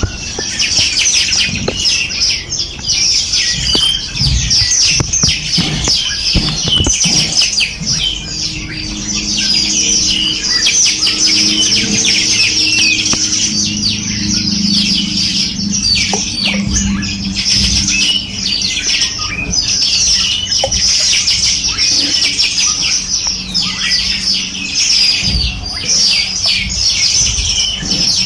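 A dense chorus of many small songbirds chirping and trilling at once, with rapid high notes overlapping throughout.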